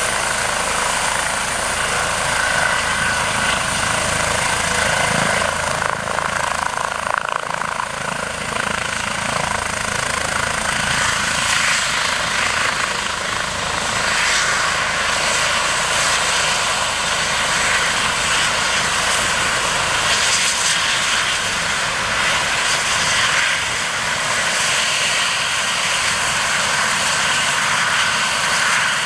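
Helicopter running, its engine and rotor making a steady noise with a thin high whine.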